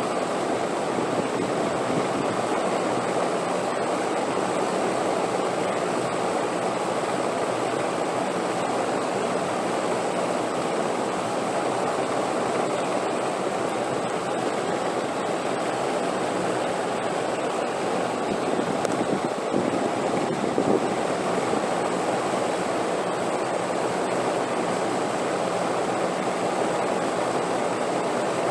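Steady wind, an even rushing that holds at one level without gusts or pauses.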